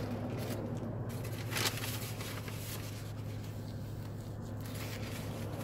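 Close-up chewing of a mouthful of burger: soft wet mouth sounds with small crackles and clicks, and a paper napkin rubbed against the lips near the end. Under it runs a steady low hum inside the car.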